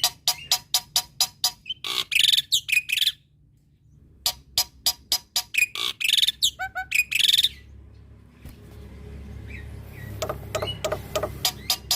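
Black-winged myna (jalak putih) singing: quick runs of sharp clicking notes, about four a second, broken by harsh buzzy phrases. There is a short pause about three seconds in and a quieter stretch in the second half, with a faint low hum behind it.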